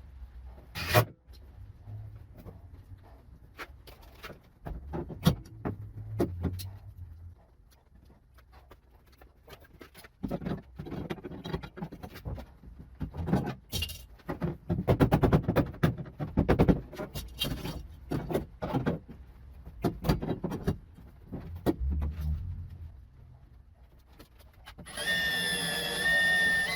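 Knocks, clicks and clatter of metal parts and clamps being handled while a glued sheet-metal patch is fixed to a pickup's box side. Near the end, a small power-tool motor whirs steadily for about two seconds, driving in a screw to hold the patch.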